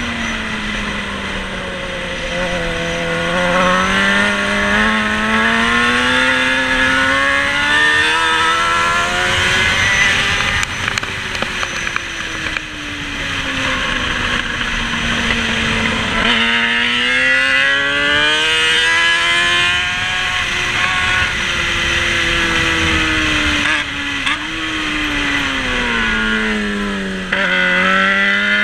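Racing motorcycle engine heard onboard, its pitch falling as the bike slows and rising again as it accelerates, in repeated cycles of several seconds. Sudden breaks in the engine note come about 16 and 27 seconds in.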